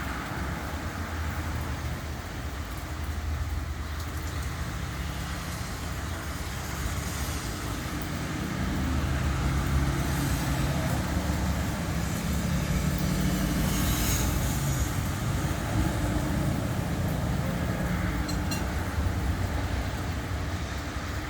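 A motor vehicle's engine running steadily in traffic noise, its low hum growing louder about nine seconds in and easing near the end.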